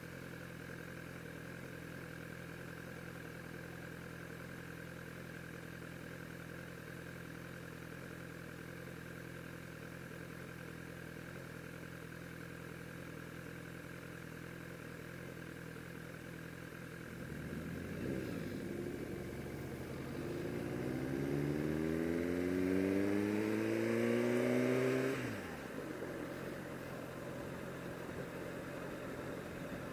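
Sport bike engine idling steadily. About 18 seconds in it accelerates, its pitch rising steadily for several seconds, then drops sharply about 25 seconds in as the throttle closes or it shifts, and runs steadily again.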